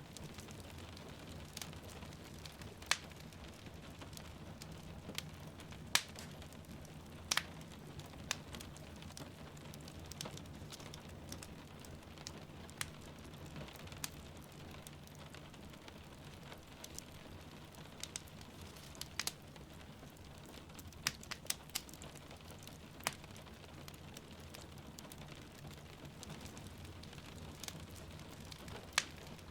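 Wood fire crackling in a fireplace, with sharp irregular pops every second or two, over a steady hiss of rain falling outside.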